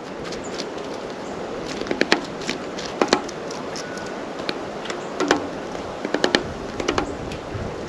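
Sharp taps and clicks of birds at a feeder, such as beaks pecking and feet landing on the feeder close to the microphone. They come in small clusters of two to five over a steady background hiss.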